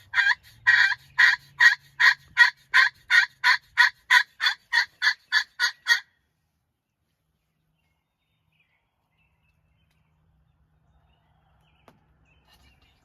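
A turkey call working a long, even run of hen yelps, about three notes a second, which cuts off sharply about six seconds in.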